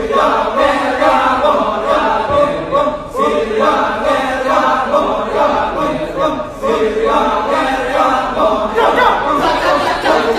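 Kecak chant: a chorus of voices chanting and singing a cappella in rhythmic phrases, with brief pauses about every three seconds.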